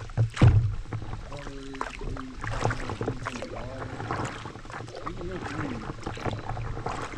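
Paddle strokes dipping and splashing in river water, with a loud thump about half a second in and a low wind rumble on the microphone.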